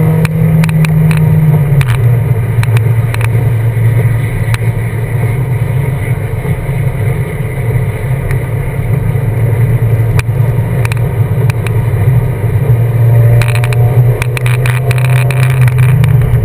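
BMW engine held at steady high revs through a drift on a wet track. The pitch drops a step about two seconds in and rises slightly near the end, with scattered sharp clicks.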